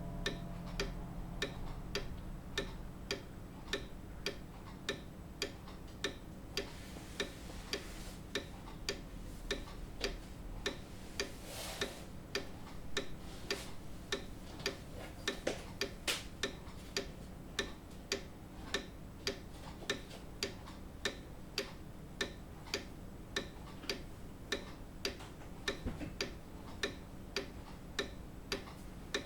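Grandfather clock ticking steadily: an even, unbroken run of sharp mechanical ticks from the pendulum escapement.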